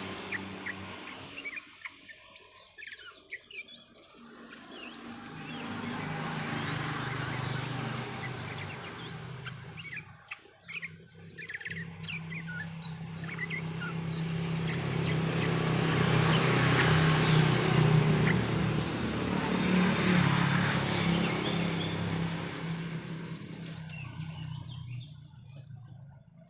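Yellow-vented bulbul (trucukan) calls, short scattered chirps, over a loud steady rumble and hiss that swells in the middle and fades near the end.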